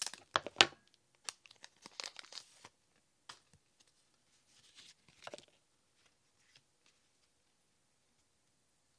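A foil booster pack of Pokémon trading cards being torn open, with a few sharp crackly rips in the first second, followed by crinkling of the wrapper and a few light rustles and clicks as the cards are handled.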